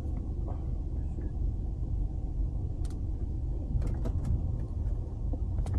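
Steady low road and engine rumble inside the cabin of a moving BMW 428, with a few faint clicks.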